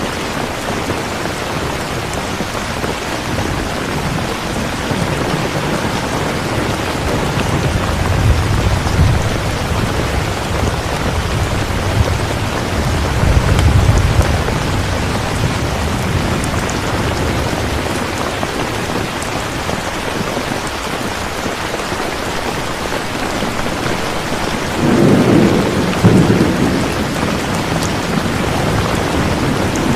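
Steady rain falling, with thunder rumbling low several times; the strongest roll comes near the end.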